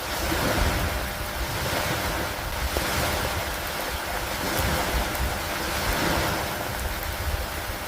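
Lake waves washing against a dock in wind and rain, swelling about every two to three seconds, with wind rumbling on the microphone underneath.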